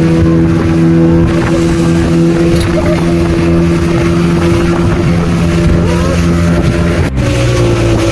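Motorboat engine running steadily at speed, a loud, even drone over water and wind noise, with a brief break about seven seconds in before the drone carries on.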